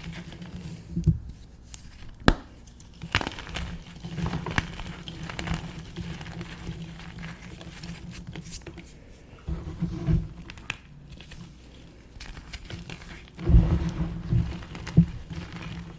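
Blocks of gym chalk being crushed and crumbled: irregular crunches and crackles with a few sharp snaps, and a heavier run of crunching near the end.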